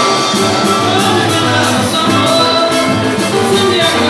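Live band music: an instrumental passage with a steady beat under held melodic notes.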